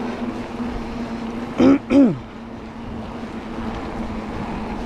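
Wind rushing on the microphone and road noise while riding a bicycle, with a steady hum that fades out about two seconds in. About a second and a half in, a person makes two short, loud vocal sounds that fall in pitch.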